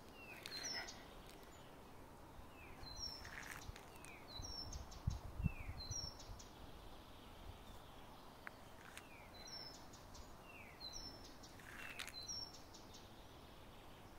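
A small songbird repeating a short, high phrase of three quick notes, about once every one and a half seconds, with a pause in the middle. A couple of low thumps about five seconds in.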